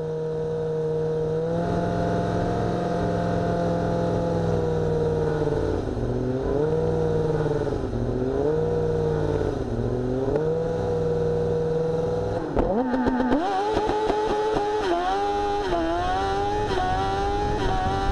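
Car engine under FreeEMS engine management held at raised revs at a standstill, the revs wavering up and down. About twelve seconds in it launches and accelerates hard, the pitch climbing and dropping back in steps as it shifts up through the gears.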